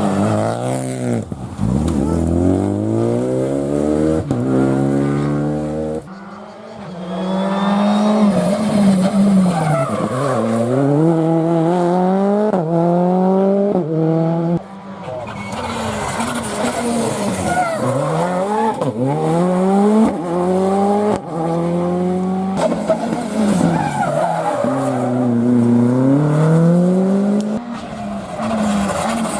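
Rally car engines driven hard on a stage, the pitch climbing through each gear and dropping at every shift or lift, over and over. The sound breaks off abruptly and picks up again at about 6 and 15 seconds.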